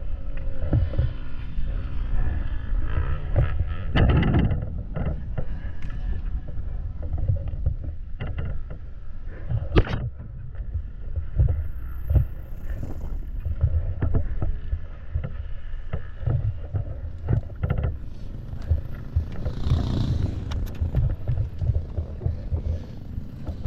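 Wind buffeting the microphone as an irregular low rumble, with a few sharp knocks, the loudest about ten seconds in.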